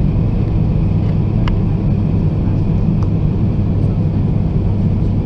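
Steady, loud low rumble of an Airbus A320's engines and rushing air heard inside the passenger cabin.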